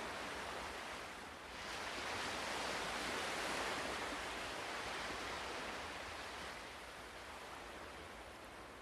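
Ocean waves on a shore: a brief lull, then a wave swells and washes in about a second and a half in, fading slowly away toward the end.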